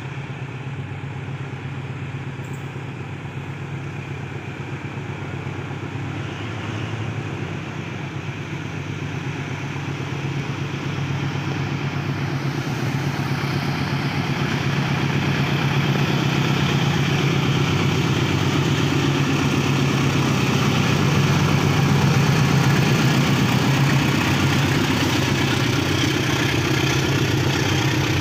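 Diesel locomotive engine running with a steady low drone, growing louder over about the first fifteen seconds as it draws near, then holding steady.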